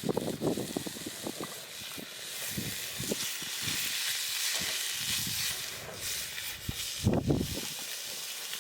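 Food sizzling in a pan over a campfire, the hiss swelling through the middle, with scattered small knocks and a low thump about seven seconds in.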